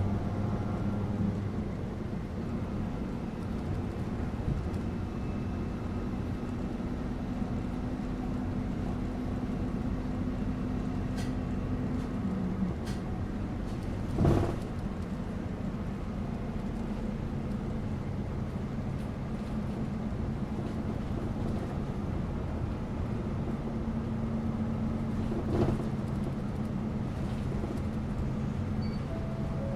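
City bus interior on the move: steady engine hum and road rumble, with the engine note stepping lower about halfway through. A sharp clunk comes near the middle and a lighter one later.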